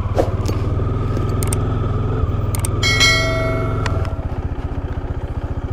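Bajaj Dominar 400's single-cylinder engine idling with an even, fast pulsing beat. About three seconds in, a subscribe-button sound effect plays: a couple of clicks, then a bell chime ringing for about a second.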